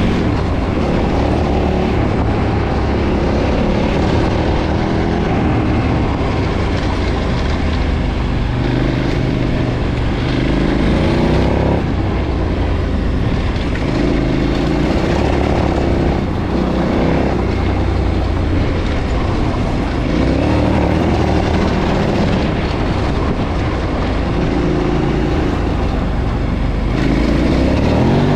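KTM 990's V-twin engine through its stock exhaust, under way, its revs rising and falling again and again as the throttle is opened and closed.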